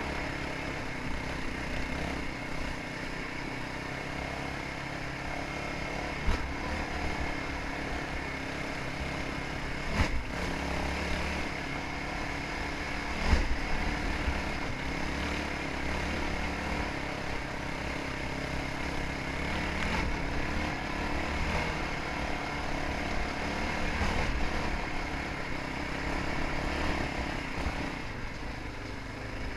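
Dirt bike engine running steadily while riding a trail, with three short sharp knocks about six, ten and thirteen seconds in.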